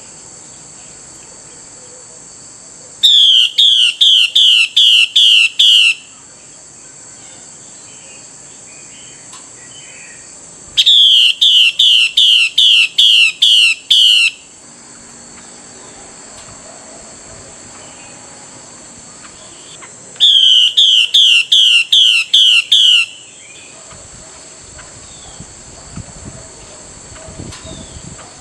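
Female Chinese hwamei giving its 'xùy' call, the call used to rouse male hwameis: three bouts of about eight quick, identical notes, each bout about three seconds long and spaced several seconds apart. A steady high-pitched hiss runs underneath.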